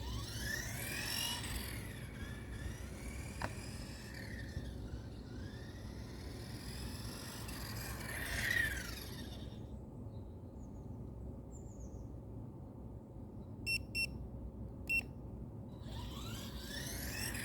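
Electric motor whine of a Carisma GT14 RC car, rising and falling in pitch as the car speeds up and passes by, about three times. Three short high beeps come around two-thirds of the way in.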